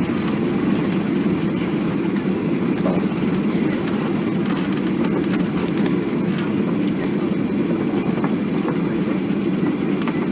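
Steady low rumble inside the passenger cabin of a Boeing 737 airliner around landing, with faint scattered clicks and rattles over it.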